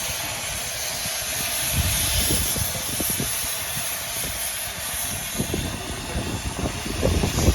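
Steam railway sound from a 15-inch-gauge miniature steam train: a steady hiss with irregular low rumbles and knocks, loudest about two seconds in and again near the end.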